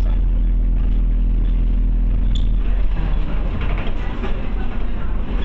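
Scania OmniCity bus engine heard from inside the bus: a steady low drone that turns rougher and more uneven about three seconds in.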